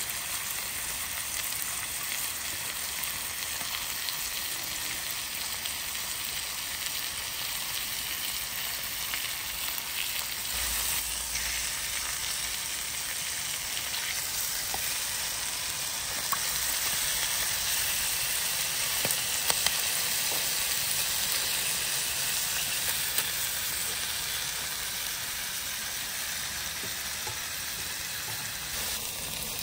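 Food sizzling as it fries in hot oil in a pan, a steady crackling hiss with a few sharp clicks; it gets somewhat louder a little past halfway.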